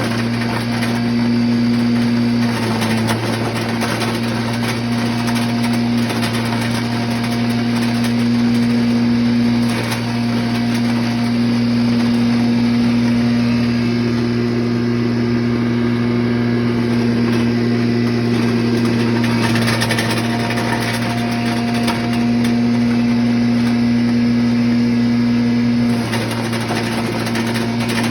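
An 8x13 pulveriser wood chipper grinding machine running steadily with a constant hum and a rushing grinding noise, its pitch wavering slightly a couple of times.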